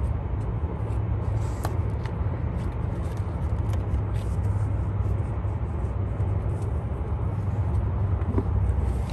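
Inside a car's cabin while driving: a steady low road and engine rumble with the air conditioning blowing, and a few faint clicks.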